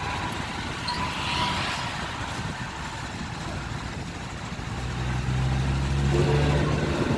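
City street traffic noise, with a motor vehicle's engine drone coming in low and steady about five seconds in and growing louder.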